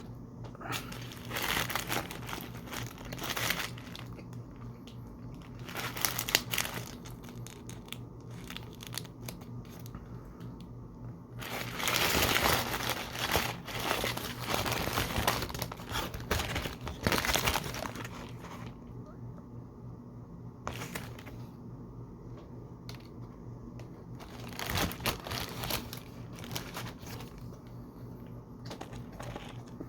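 Paper fast-food packaging crinkling and rustling as it is handled, in irregular bursts with the longest and loudest spell in the middle, over a steady low hum.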